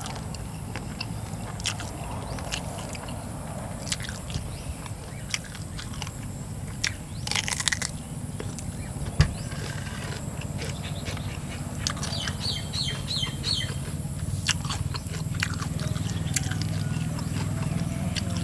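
Close-up mouth sounds of people eating stir-fried eel with rice: scattered chewing clicks and lip-smacks over a steady low hum. A short run of four or five quick high chirps comes about twelve seconds in.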